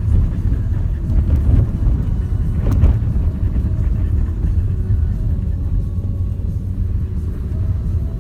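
Renault Duster 4x4 driving over rough ground: a steady low rumble of engine and tyres, with a single sharp knock about three seconds in.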